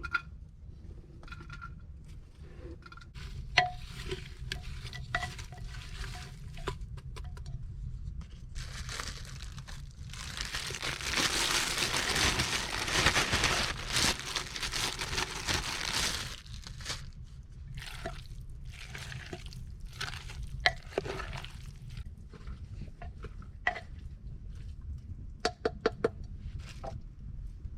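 Cookware being handled at an outdoor camp kitchen: scattered clinks and knocks of utensils against pots, with a louder, even rushing of liquid, like pouring, lasting about six seconds in the middle.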